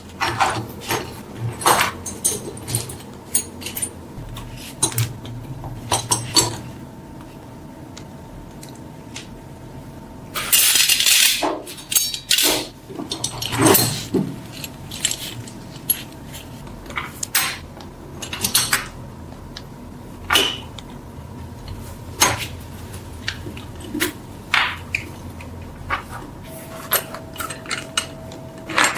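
Small metal objects clinking and knocking at a workbench in irregular sharp taps, with two brief noisy rushes, each about a second long, around eleven and fourteen seconds in.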